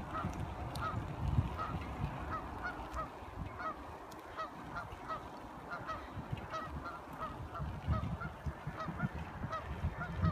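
Short calls repeating about two to three times a second, like a bird honking, over an uneven low rumble.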